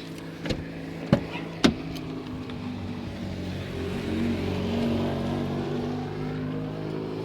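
A 2007 BMW 320d's four-cylinder diesel engine runs steadily. Three sharp clicks come in the first two seconds, and the sound swells louder around the middle before easing back.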